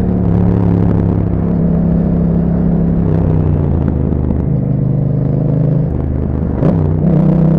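2021 Yamaha MT-07's parallel-twin engine running through an Akrapovic exhaust at steady, moderate revs while riding. The engine note steps down a little about three seconds in, shifts again a couple of times, and breaks briefly with a sharp click near the end before holding steady.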